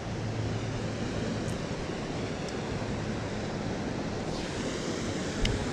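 Steady rushing of wind on the microphone, with a single sharp click near the end.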